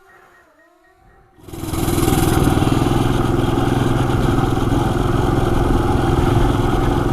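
Coleman CT200U-EX mini bike's single-cylinder four-stroke engine running steadily. It cuts in abruptly after about a second and a half of faint sound.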